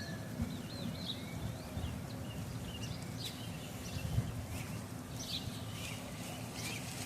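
Birds chirping and warbling outdoors over a steady low background rumble, with a few short sharp clicks.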